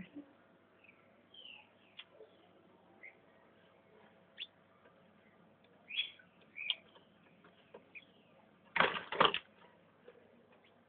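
Cockatiels giving short, scattered chirps, with a brief flurry of wing flapping about nine seconds in.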